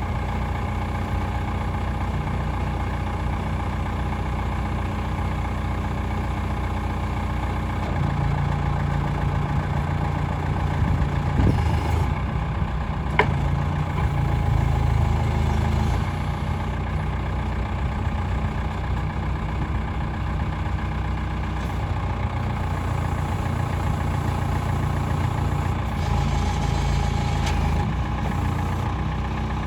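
Diesel engine of a 1985 Case 580G loader backhoe running steadily. It picks up, louder and a little higher, for about eight seconds in the middle, then settles back. There is a sharp click midway through.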